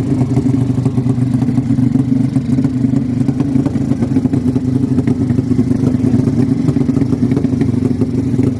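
Tuned drag-racing motorcycle engine running loud and steady, with a clattery edge and no clear rise or fall in pitch.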